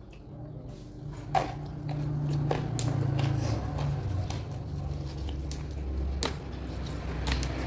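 Close-miked chewing of food, a steady low mouth rumble broken by a few sharp crunching clicks.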